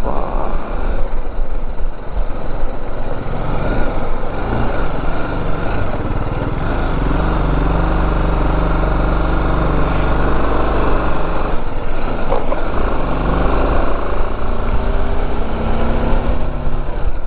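BMW G310GS single-cylinder engine running steadily while the motorcycle is ridden. The engine note rises slightly near the end.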